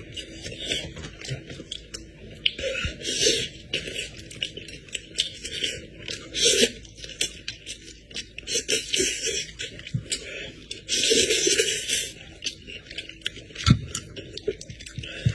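A person eating goat head close to the microphone: irregular chewing, smacking and scraping with many small clicks, a few short hissy bursts and occasional low thumps.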